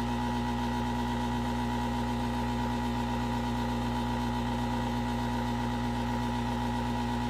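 Hot-air reflow station's blower running steadily at full airflow, a constant hum with a fixed pitch.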